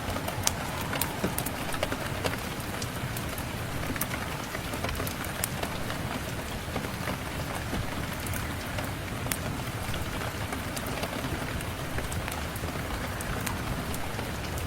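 Steady rain, a dense even patter with scattered sharp clicks through it.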